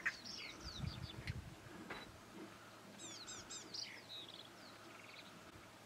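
Wild birds chirping: groups of quick, falling whistled notes, just after the start and again about three seconds in. A brief low rumble comes about a second in.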